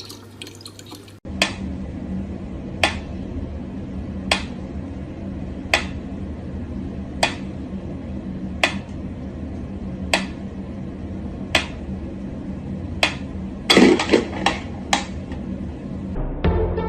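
Sharp, hard knocks or taps repeating evenly, about one every second and a half, over a steady low hum, with a quick run of several knocks near the end.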